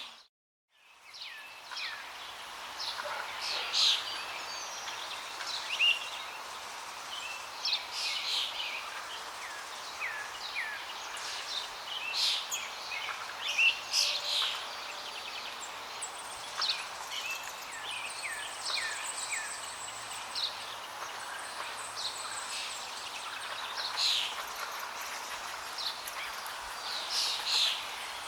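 Flowing water making a steady rush, with many small songbirds chirping and calling over it in quick, short notes. The sound cuts out almost completely at the very start and fades back in over about a second.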